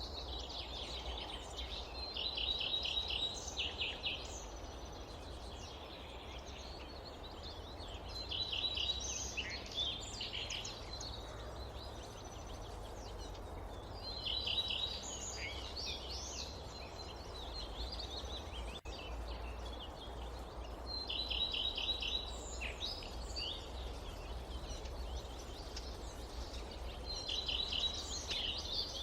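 A songbird repeats the same short song about every six seconds, five times: a brief high note, then a quick run of notes. Beneath it is a steady low rumble of outdoor ambience.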